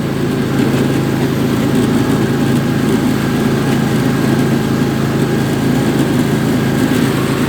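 Riding lawn tractor engine running steadily under constant throttle.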